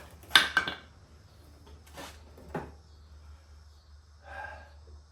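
Wooden block being knocked loose and pulled out: a quick cluster of sharp knocks about half a second in, two lighter knocks around two seconds in, and a short scrape near the end.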